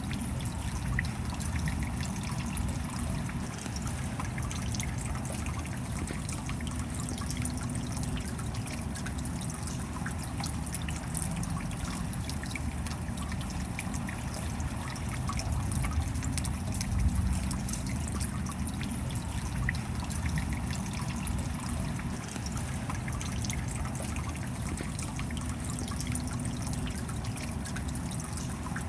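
Steady rain with many small drops pattering and trickling water.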